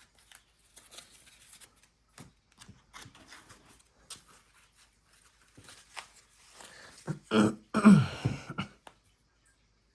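Trading cards being handled and flipped through, with soft flicks and rustles. A short, louder vocal sound comes about seven seconds in.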